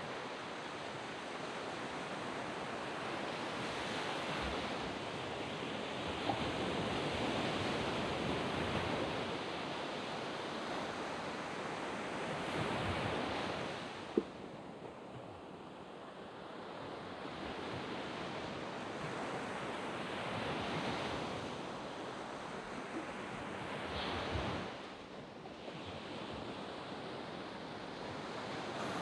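Waves breaking and washing up a sand beach: a steady surf noise that swells and fades in slow surges every few seconds. A single sharp click sounds about halfway through.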